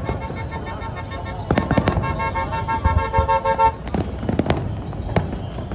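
Fireworks going off in a series of sharp bangs. Over the first three and a half seconds a horn is held in one long steady blast, loudest in its last second and a half before it stops.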